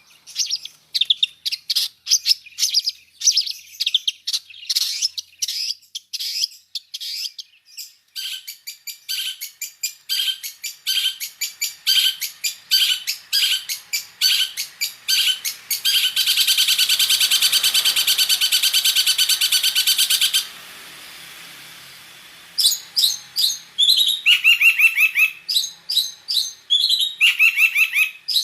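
Long-tailed shrike singing a mimicry medley: quick runs of high chirping notes, then a fast trill lasting about four seconds, a brief pause, and short falling whistled phrases near the end.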